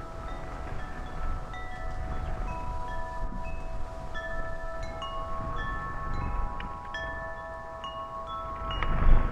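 Wind chimes ringing: many overlapping notes struck at irregular moments and left to ring on. Wind rumbles on the microphone throughout, with a strong gust buffeting it near the end.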